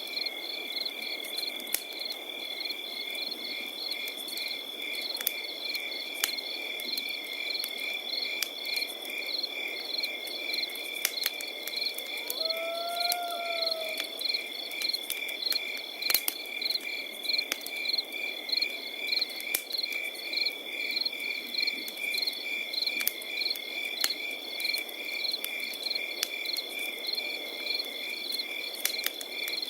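Crickets chirping steadily: a continuous high trill with fast, even pulsed chirps. Campfire crackles and pops are scattered irregularly over a low hiss, and one short rising-and-falling call comes about halfway through.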